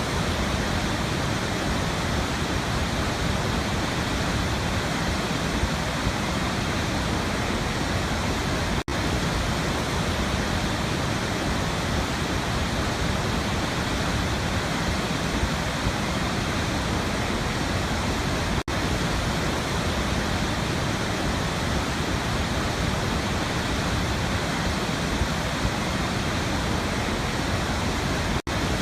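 Waterfall: a steady, even rush of falling water, broken by a brief dip in level about every ten seconds.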